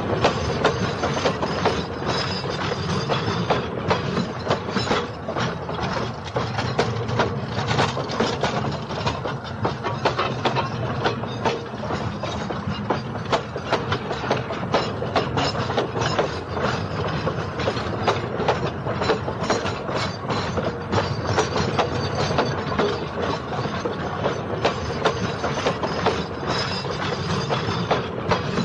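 Train wheels clattering over rail joints as the train runs steadily: a continuous, fast clickety-clack of wheel knocks over a steady rumble.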